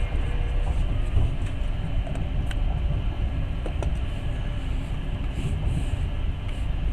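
Passenger train running on the rails: a steady rumble of the moving carriage, with a couple of faint sharp clicks about two and a half and four seconds in.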